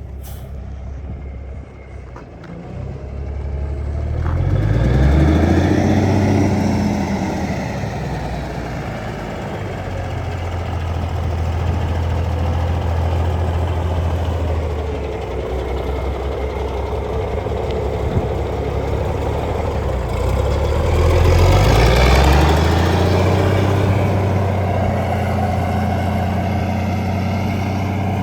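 Cummins Big Cam inline-six diesel in a heavy tow truck, running and revved up twice, about four seconds in and again about twenty seconds in, each time climbing in pitch, holding, then easing back.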